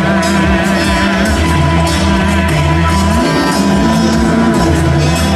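Rock band playing loud live music, with a wavering high melody line near the start.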